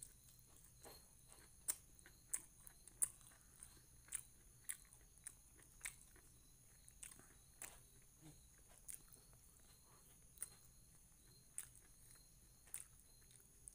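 Close-miked mouth sounds of eating chicken and rice by hand: wet chewing and lip-smacking clicks, a sharp one every half-second to second, the loudest a couple of seconds in.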